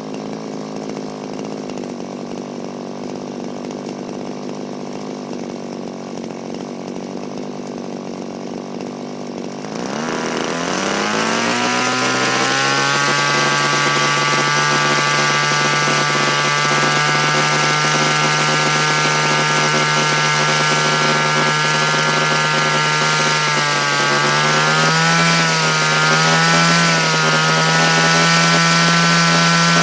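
Small two-stroke petrol engine of a converted Raptor 50 RC helicopter running: it holds a steady low speed, then about a third of the way through its pitch climbs smoothly as the throttle opens and settles into a louder, higher steady run, with a few brief wavers in pitch near the end.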